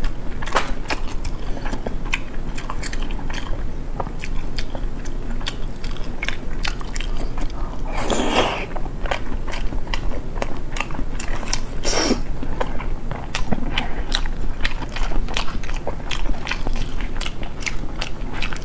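Close-miked wet chewing and mouth smacking of a person eating soft braised eggs, with many short clicks of lips and tongue. There are two longer noisy sounds about eight and twelve seconds in.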